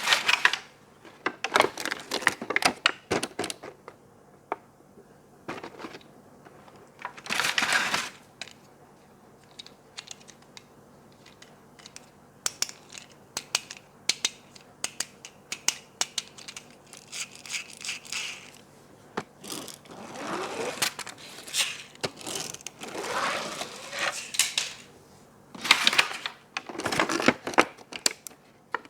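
Toy packaging being opened and handled by hand: plastic and cardboard crinkling and tearing in several longer rustles, between many small irregular clicks and taps.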